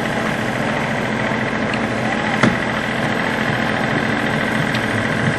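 A steady engine hum, like an engine idling, with one sharp knock about two and a half seconds in.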